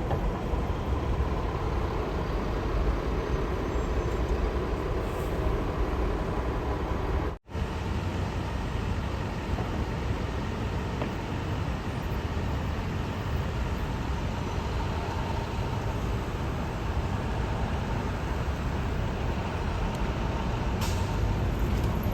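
Steady low rumble of city traffic and running vehicle engines, with a faint steady hum. The sound cuts out for an instant about seven seconds in.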